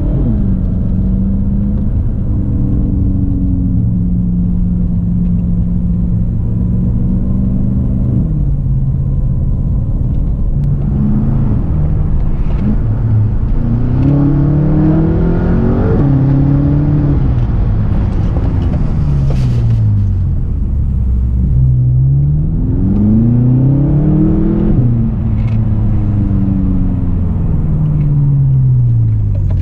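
BMW F10 M5's 4.4-litre twin-turbo V8 running through a muffler bypass exhaust with race resonators, straight-piped in place of the factory mufflers. The engine holds a steady note for several seconds, drops at about eight seconds, then twice climbs in pitch and falls back.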